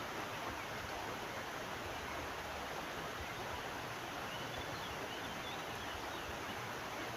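Steady rush of a flowing river, with a few faint high bird chirps about four to six seconds in.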